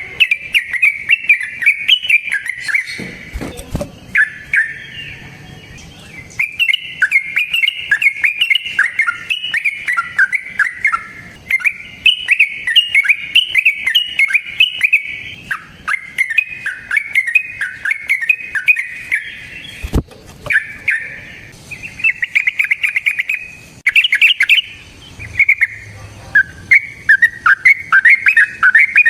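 Yellow-vented bulbul singing its long, rapid song (the 'ropel' keepers prize): fast runs of bright, bubbling notes in phrases, broken by short pauses.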